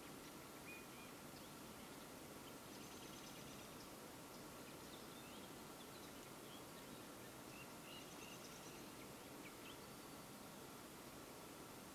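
Near silence: a steady faint hiss with a few faint, short bird chirps and calls scattered through it.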